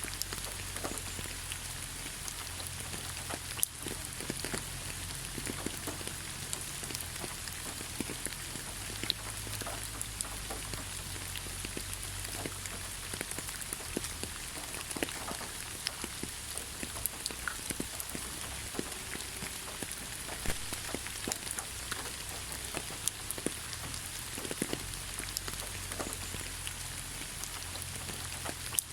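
Steady rain falling in a forest, with many scattered individual drops ticking and pattering close by over an even hiss.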